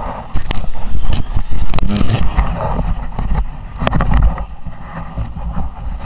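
Onboard sound of a Suzuki RM-Z 250 motocross bike riding: wind buffeting the camera microphone over the engine, with a run of sharp knocks about half a second to two seconds in and another near four seconds.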